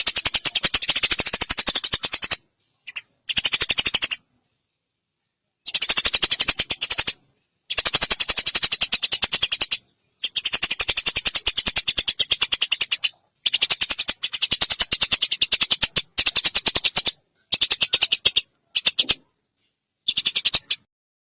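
Eurasian tree sparrows giving rapid, high chattering fight calls, many chirps a second, in repeated bursts of one to three seconds broken by dead-silent gaps.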